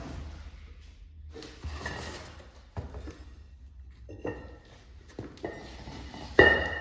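Irregular knocks and clinks of hard objects striking each other, the loudest a sharp strike with a short ringing tone near the end.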